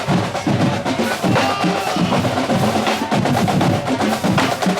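Marching drumline playing, snare and bass drums beating a fast, steady rhythm.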